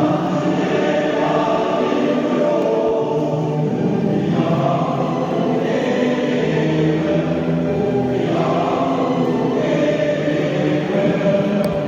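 A group of voices singing together in unison, in phrases a few seconds long.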